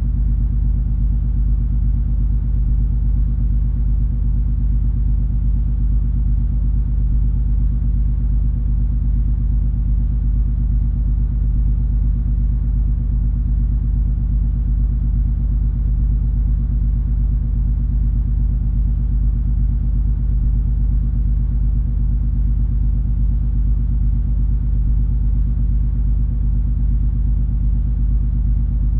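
Steady low rumble of the cruise ferry MS Color Magic under way, heard aboard: the ship's engines and machinery hold a few unchanging deep hum tones under a faint even hiss.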